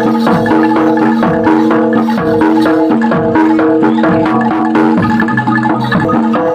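Loud percussion music: tuned mallet instruments struck in a fast, even pulse, ringing on a few steady notes, with drum strokes that drop in pitch.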